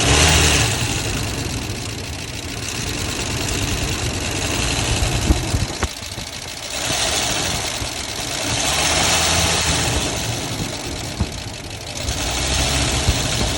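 1990 Ford F-150's 5.0 L V8 engine running and revved up and back down several times, carrying a knocking noise that speeds up with the RPM; the owner has not found its cause and doubts it is lifters, a rocker or a rod knock.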